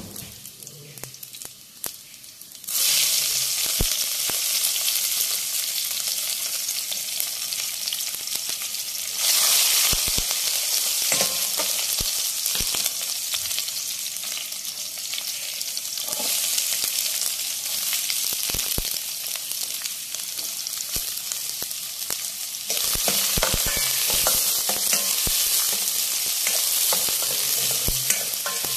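Chopped green chillies and sliced onions frying in hot oil in a stainless steel pan: the oil breaks into a loud sizzle about three seconds in as they go in, and grows louder again twice as more is added. A metal spatula clicks and scrapes against the pan while stirring.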